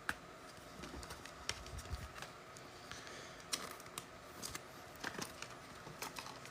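Faint scattered clicks and light rustles of trading cards and their packs being handled.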